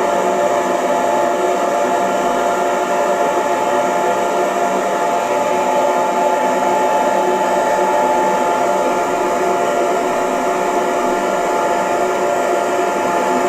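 Hair dryer running steadily: an even rush of air with a steady motor whine of several tones.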